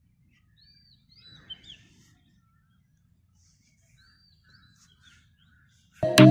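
Faint outdoor quiet with a few short bird chirps, twice in small clusters. Background music starts suddenly near the end.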